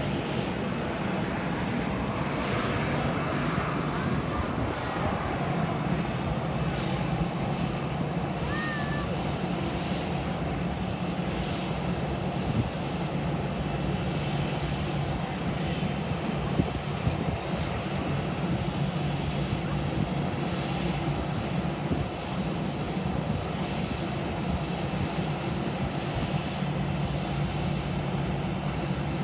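Aircraft engines running at a steady, unchanging drone with no rise or fall. A short high chirp is heard about nine seconds in.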